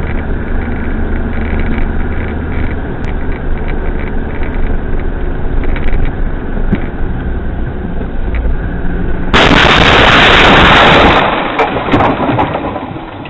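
Car driving, heard through a dashcam's microphone as steady engine and road noise. About nine seconds in, a sudden very loud burst of noise lasts about two seconds, then fades: the sound of a collision.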